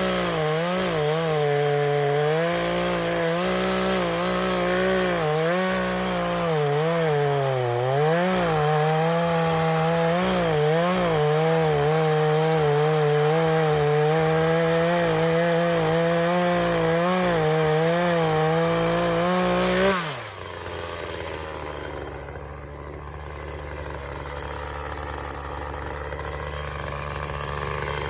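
Chainsaw running at high revs while cutting pine wood, its pitch wavering as the load on the cut changes. About twenty seconds in, the throttle is let off and the engine drops sharply to a steady idle.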